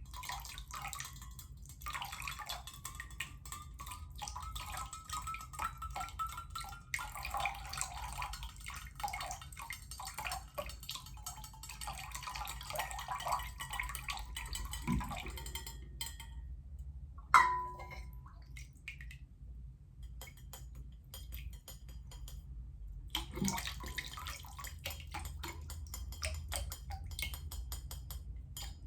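Water trickling and splashing by hand into a container, with a faint tone rising slowly over the first several seconds. About two-thirds of the way in there is one sharp, ringing clink, then sparser drips and small splashes.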